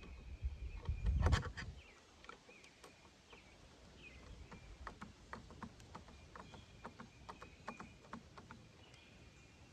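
Heavy thump about a second in, then a run of small metallic clicks and taps as K31 rifle parts are handled and fitted during reassembly.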